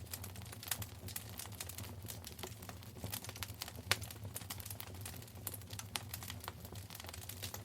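Wood fire crackling in a fireplace: dense irregular snaps and pops over a low steady rumble, with one louder pop about four seconds in.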